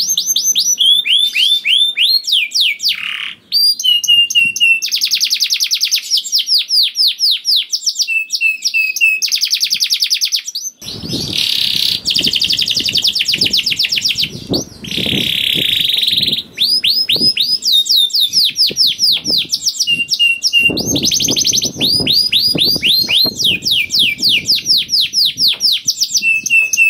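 Male canary singing long, fast rolling trills of quickly repeated falling notes, the 'ngerek' roll kept for prompting other canaries to sing. A rougher, buzzier stretch with low thuds comes near the middle and again later.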